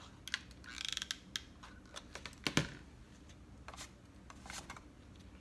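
Cardstock pieces being handled and set down on a work table: scattered light clicks and taps, a short rustle about a second in, and one sharper tap about two and a half seconds in.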